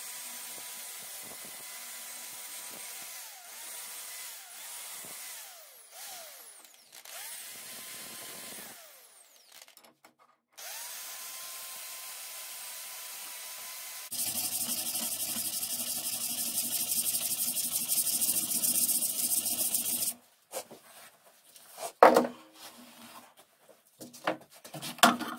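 A small electric power tool, like a drill, whines at a steady pitch that sags and recovers several times as it is pressed into the work. After a break, a louder, rougher run follows for about six seconds. Near the end come a few sharp knocks.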